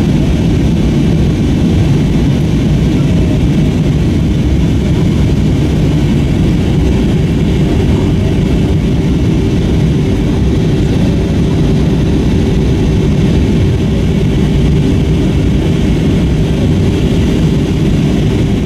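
Airliner cabin noise from an Airbus A321 in flight: a loud, steady rumble of airflow and its IAE V2500 turbofan engines. A steady hum joins about six seconds in and holds.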